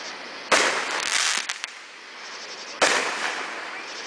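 Fireworks going off: two loud bangs, about half a second in and near three seconds, each trailing off in a fading fizz, with a few small pops after the first.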